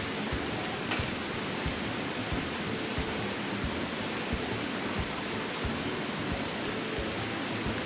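Steady rushing of a flowing river, with soft low thumps scattered through it.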